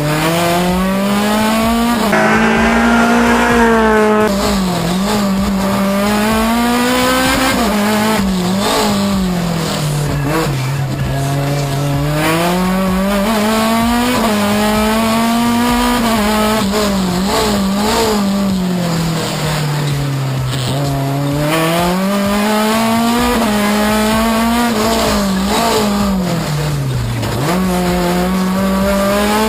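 Racing car engine heard from inside the cabin, driven hard through a slalom: it revs up in long rising sweeps, holds, then drops back with quick short jumps in pitch as the driver brakes and shifts down, over and over.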